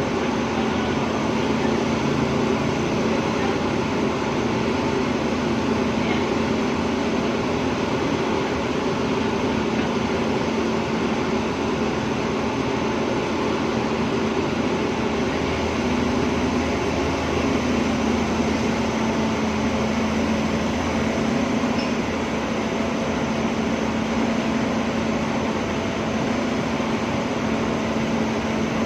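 Hydraulic excavator's diesel engine running steadily, with a slight rise in its low drone partway through.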